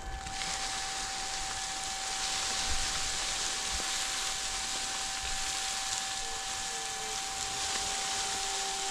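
Wood chips spraying out of a brush chipper's discharge chute and pattering into the truck's chip bed: a dense, steady rain-like hiss that starts just after the beginning, over a steady high whine from the chipper.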